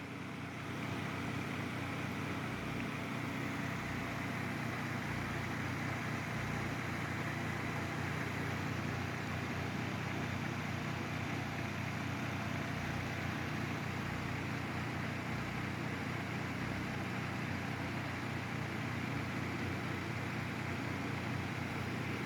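Mainstays MBF-918 9-inch personal box fan running steadily on high speed: an even rush of moving air over a low, steady motor hum.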